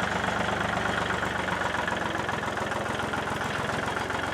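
Engine idling steadily with a fast, even firing rhythm.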